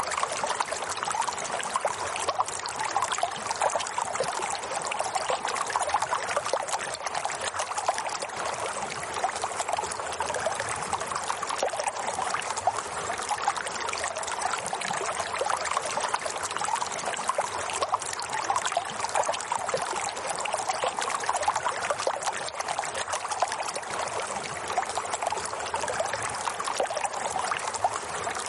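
Water flowing and trickling steadily, without a break, like a small stream running over stones.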